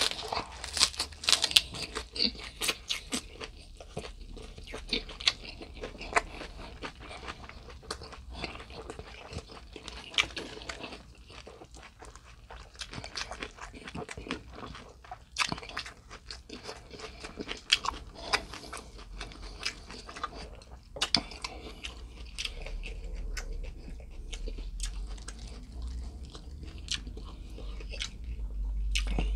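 Close-miked chewing of crunchy food, mukbang style: a run of loud, crisp crunches in the first few seconds, then slower chewing with occasional sharp crunches.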